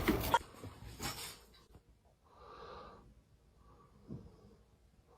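Two soft breathy puffs, about three seconds apart, with a faint click between them.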